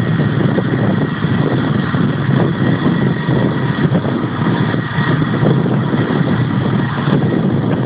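Steady engine rumble with a faint high whine held on one pitch.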